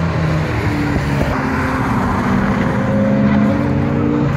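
Car engines running steadily, their pitch rising slightly in the middle.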